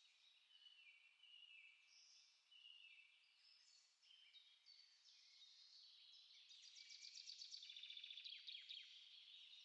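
Faint chorus of small songbirds singing and chirping, several overlapping phrases at once, with a fast rapid trill rising to the loudest point in the last few seconds.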